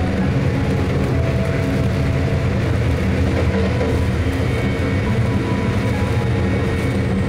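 Amtrak Empire Builder passenger train rolling along the track, a loud, steady low rumble of the car on the rails heard from inside the car.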